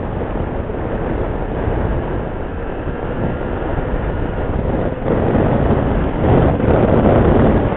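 Motorcycle on the move: engine and wind rushing over the microphone in a steady noisy haze, getting louder about five seconds in.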